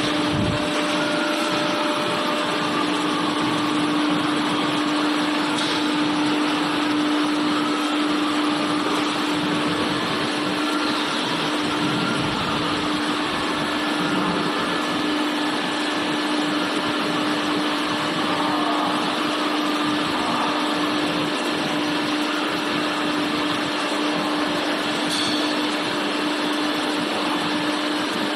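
Steady machinery noise with a constant hum running underneath, as of machines running in a factory workshop.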